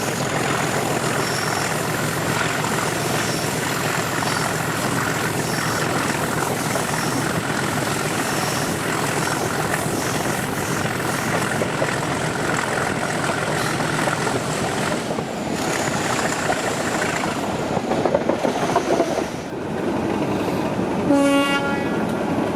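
Class 37 diesel locomotive with an English Electric 12CSVT engine, working under power and heard from the train behind it, with steady running noise from the carriages. Near the end a short horn toot sounds.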